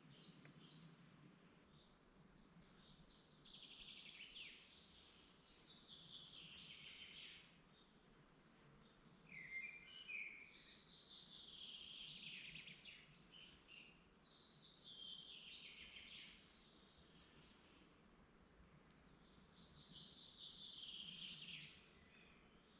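A woodland songbird singing: four or five fast, high song phrases of a few seconds each, separated by short pauses, with a shorter, lower call about ten seconds in. Faint steady background hiss.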